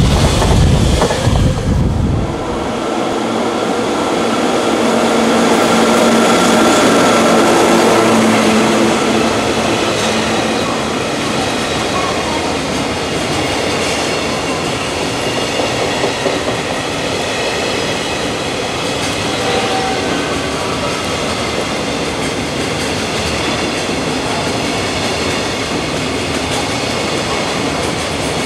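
Freight train running past at track side: steel wheels rolling and clattering over the rails, with a deep rumble that drops away about two seconds in, then a long string of wagons going by in a steady rush with faint wheel squeal.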